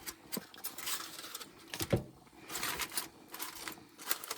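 A utensil clattering and scraping against a cooking pot, a run of short clicks with one louder knock about two seconds in.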